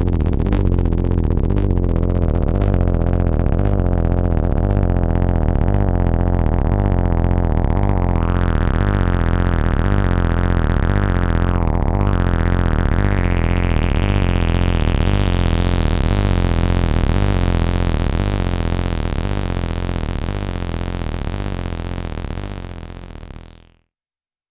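Acid bassline from two Behringer TD-3-MO synths (TB-303 clones) playing in unison, a fast repeating pattern with a heavy low end. The tone grows brighter about a third of the way in, dips briefly, then opens up further, before the sound fades out and stops just before the end.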